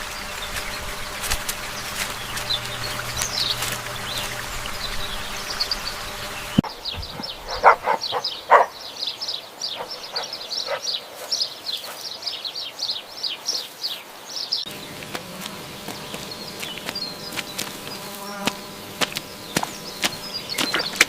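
Small birds chirping in quick, high, repeated calls over a steady hiss, with a few louder, lower calls about eight seconds in. The background changes abruptly twice, as if clips were cut together.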